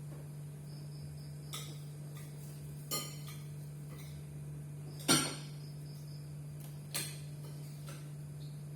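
A few short, sharp knocks and clinks of hard objects, about four in all, the loudest about five seconds in, over a steady low hum.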